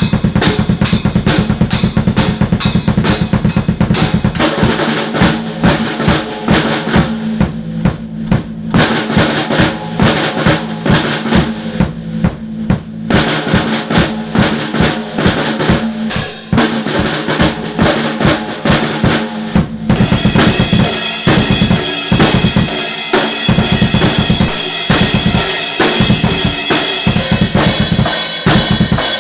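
Acoustic drum kit played loud and fast: rapid bass drum and snare strokes with cymbals, the cymbals ringing out continuously from about two-thirds of the way through.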